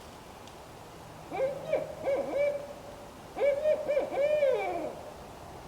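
Barred owl hooting: two phrases of several hoots each, the second ending in a drawn-out falling note.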